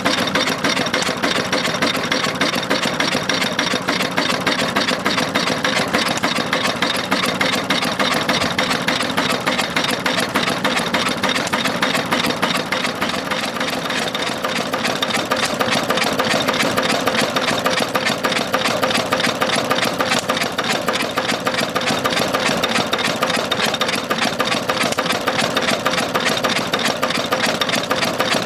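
Ruston & Hornsby 1XHR single-cylinder horizontal open-crank diesel engine running steadily, with an even, rapid knocking beat.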